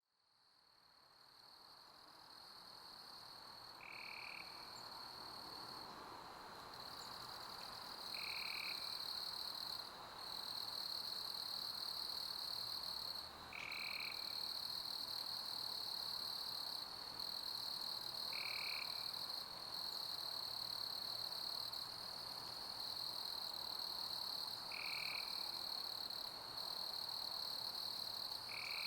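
Crickets chirping in a steady high-pitched chorus over a soft pink-noise hiss, fading in over the first few seconds. A short, lower call recurs about every five seconds.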